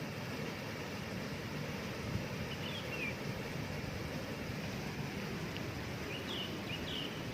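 Steady rushing of a waterfall, with a small bird chirping over it: a couple of short notes about two and a half seconds in, then a run of quick, falling chirps near the end.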